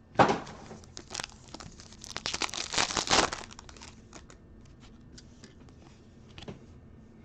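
A foil trading-card pack being torn open and its wrapper crinkled: a sharp rip just after the start, a burst of crinkling about two to three seconds in, then light ticks of cards being handled.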